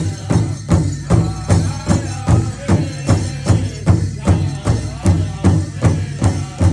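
A drum beaten in a steady, even rhythm of about three strokes a second, with voices singing over it.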